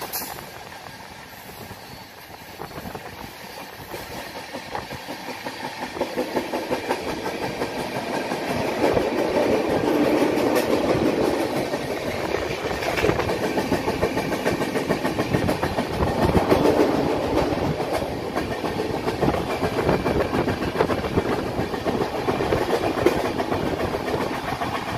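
Moving passenger train: wheels rumbling and clattering on the track. The running noise grows louder over the first several seconds, then holds steady.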